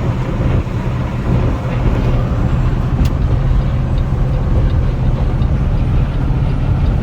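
Steady drone of a semi-truck's diesel engine and tyre and road noise at highway speed, heard inside the cab, with a small click about three seconds in.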